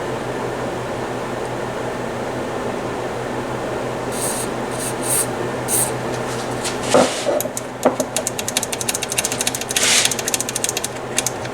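Short hisses of aerosol contact cleaner sprayed into a vintage stereo receiver's switches, followed by rapid clicking as the switches are worked back and forth. A room heater hums steadily underneath.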